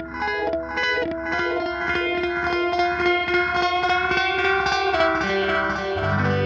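Electric guitar with some drive played through the Big Ear Pedals Albie multi-effect on setting 2 in ultra mode, where a long delay repeats and smears the notes. Quick picked notes in the first two seconds give way to held, overlapping notes, and a low note comes in about six seconds in.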